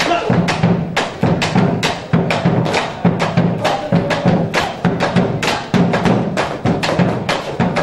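Argentine folk music driven by steady percussion: sharp, woody drum strikes at about four a second over a deep drum tone, with no singing.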